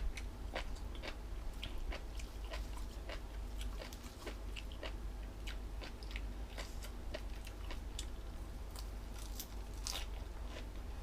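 Close-up crunchy chewing and biting of jellyfish salad: irregular crisp crunches and mouth clicks throughout, one louder crunch near the end.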